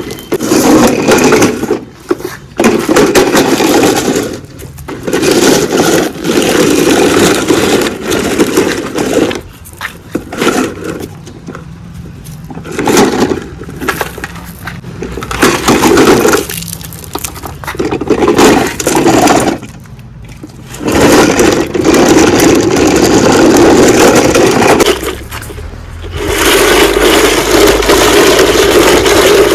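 Loud scraping and grinding from a toy JCB digger working in sand, coming in bursts of one to several seconds that stop and start.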